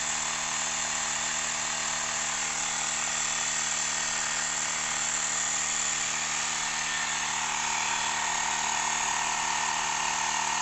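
Xiaomi Mi Portable Electric Air Compressor running steadily as it inflates a flat tyre from zero: a constant buzzing motor-and-pump drone with a hissing whine. The whine grows slightly stronger in the last few seconds.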